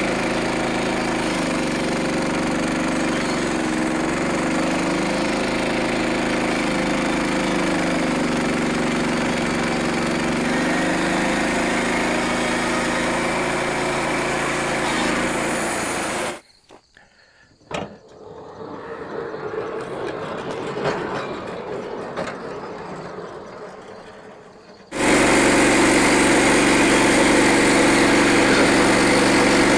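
Portable band sawmill's small gas engine running, its pitch dipping and recovering several times as it works. About halfway through the engine sound drops out suddenly, leaving a much quieter, uneven stretch, then it comes back in, louder and steady.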